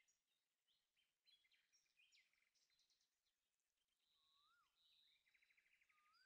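Near silence, with very faint birdsong: scattered short chirps and trills, and a rising-then-falling whistle twice in the second half.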